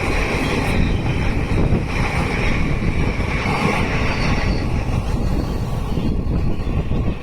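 Indian Railways train passing close at speed: a loud, continuous rumble and clatter of wheels over the rails, with a high hiss that fades about four and a half seconds in.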